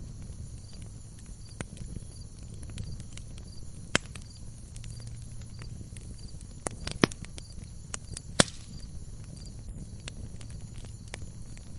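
Wood logs burning in a fireplace: a steady low rumble of flames with scattered sharp crackles and pops. The loudest pops come about four seconds in and again around seven to eight and a half seconds in.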